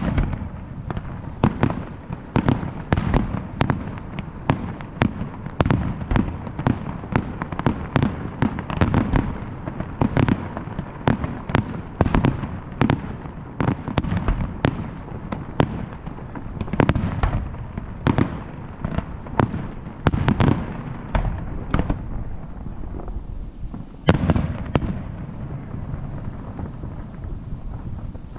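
Fireworks display at its height: a rapid, dense barrage of aerial shell bursts and crackling reports over a continuous rumble of echo, thinning out near the end.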